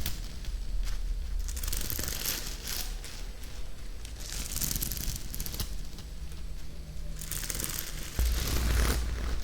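Close-miked ASMR triggers: repeated bursts of crackly, crinkling noise, with a low rumble that swells near the end.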